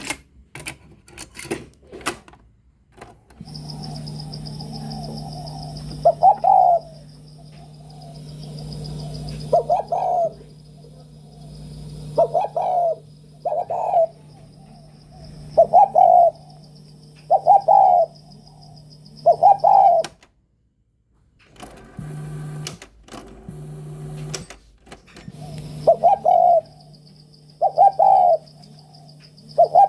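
A bird's short calls, like a dove cooing, repeating about every one and a half to two seconds over a steady low hum. The sound drops out completely for about a second partway through.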